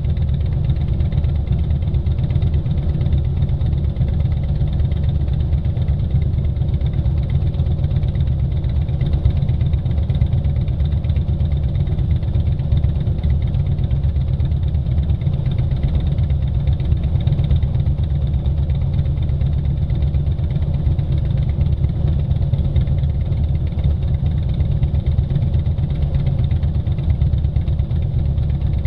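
Motorcycle engine running at a steady speed, with an even, unchanging note.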